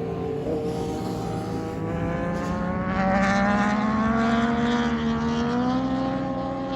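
Racing motorcycle on track, its engine note climbing steadily in pitch as it accelerates, loudest about three seconds in.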